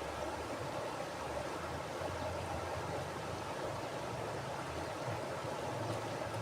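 Mountain river flowing over rocks: a steady, even rush of water with a low rumble underneath.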